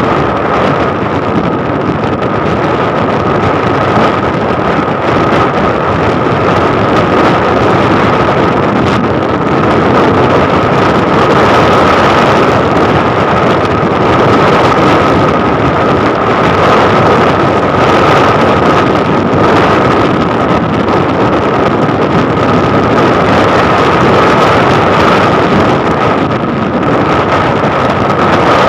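Loud wind rushing over the microphone of a moving motorcycle, with the engine running steadily underneath and a steady high whine.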